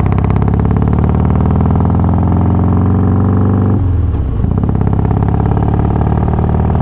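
Harley-Davidson Twin Cam 88 V-twin with Feuling 525 cams running steadily. About halfway through its note drops off briefly, then picks back up.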